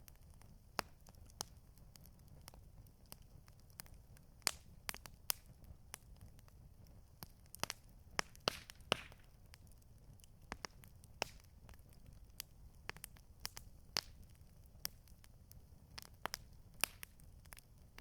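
Campfire crackling: irregular sharp pops and snaps from burning wood over a faint low background, with a brief burst of quick pops and a hiss about halfway through.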